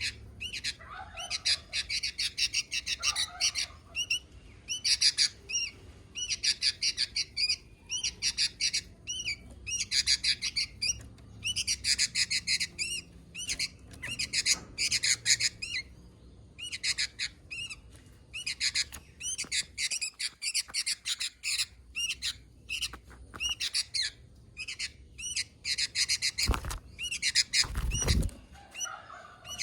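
Sooty-headed bulbul (kutilang) calling in phrases of quick, high notes about a second long, repeated every second or two. Two dull thumps a little before the end.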